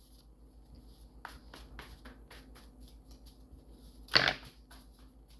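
Playing or tarot-style cards being shuffled by hand: a run of soft quick flicks, then a short louder rustle of cards a little after four seconds in.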